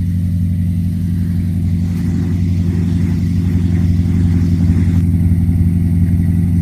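A 1979 Chevy C20 pickup's engine running loud and rough on choke just after a cold start, with a slight rise in level about five seconds in. It is not yet warmed up: "not happy".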